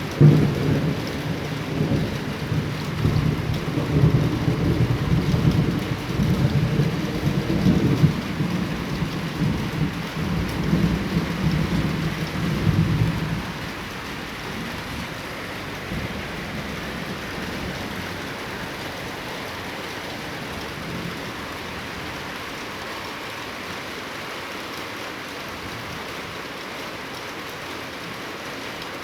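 Thunder rumbling over steady heavy rain, with a sharp loud crack just after the start; the rumble fades out about halfway through, leaving only the even hiss of rain.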